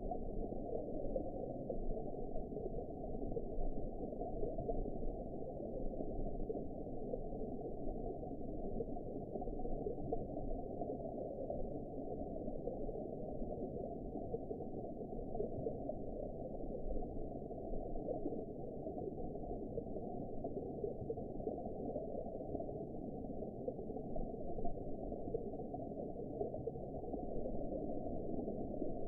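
Underwater ambience for sleep: a steady, muffled rumble and wash of water with no highs, unchanging throughout.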